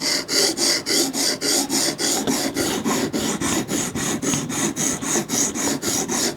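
Coarse 80-grit sharpening stone rasped back and forth along a steel knife blade's edge in quick, even strokes, several a second.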